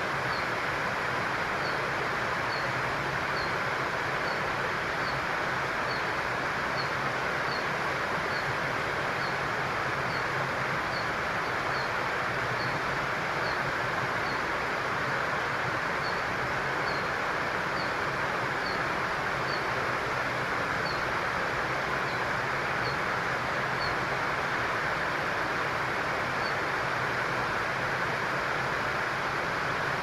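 A small bird repeats a short, high chirp a bit more than once a second, pausing briefly midway and stopping near the end, over a steady rushing background noise and a low hum.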